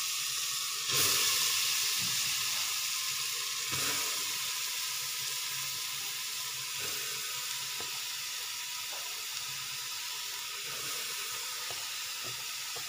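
Grated carrots frying in hot ghee in an open pressure cooker: a steady sizzle that flares up about a second in and again near four seconds, then slowly dies down.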